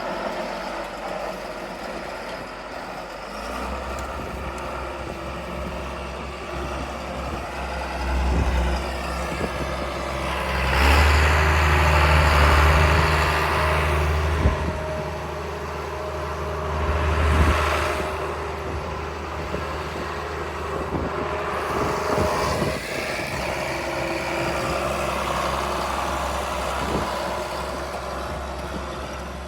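John Deere 4955 tractor's diesel engine running steadily under field work, getting louder several times and most of all for a few seconds about a third of the way in.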